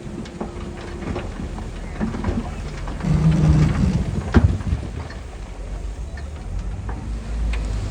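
Heavy earthmoving machinery working soil: a low engine rumble with scattered clanks and knocks. It grows louder about three seconds in, with a brief low drone and one sharp knock a second later.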